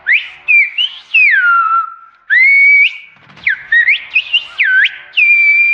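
Silbo Gomero whistled speech: one person whistling a phrase as a line of glides that rise and fall in pitch, broken into several short stretches and ending on a held note.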